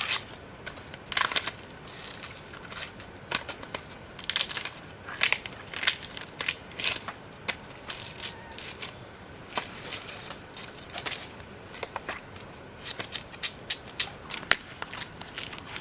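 Irregular crunching and crackling of dry plant material, with sharp snaps coming in scattered clusters.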